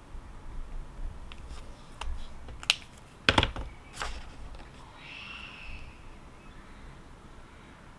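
Several light clicks and taps over about three seconds, the loudest a quick double knock just past the middle, followed by a faint higher sound lasting under a second, over a low steady background rumble.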